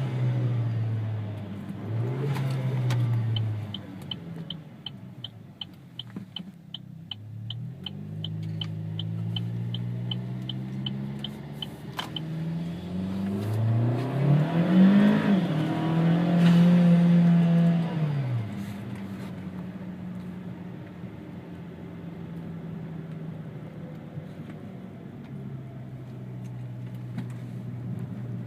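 Chevy Sonic RS's 1.4-litre turbocharged four-cylinder through its new aftermarket exhaust, heard from inside the cabin, revving up and dropping back several times as it goes through the gears, with the longest and loudest pull from about 14 to 18 seconds before easing back to a steady cruise. A regular ticking, about three a second, runs from about 3 to 12 seconds in.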